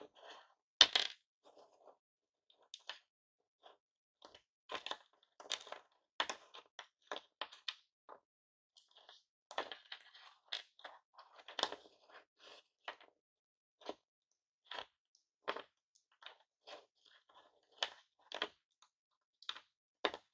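Pieces of smashed hard-candy lollipops being handled: irregular sharp clicks, clinks and crunches, several a second at times, with short pauses between.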